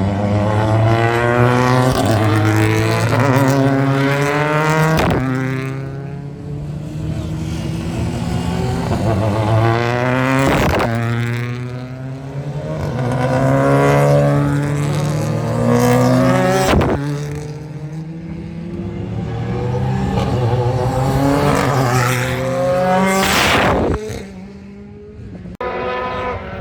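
British Touring Car Championship race cars' turbocharged 2.0-litre four-cylinder engines running hard past on track, one car after another. Each engine note climbs in pitch and breaks off with a sharp crack at the gear changes.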